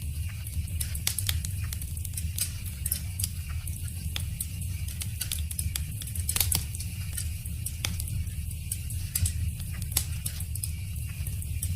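Wood fire crackling: frequent, irregular sharp pops and snaps over a steady low rumble of burning. One louder pop comes about six and a half seconds in.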